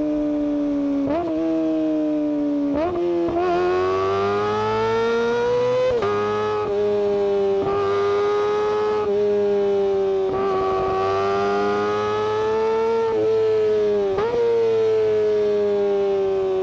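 Kawasaki Ninja ZX-25R's 250 cc inline-four engine running at high revs through its exhaust. The pitch holds high and drifts slowly, jumps up sharply a few times, and sinks slowly near the end.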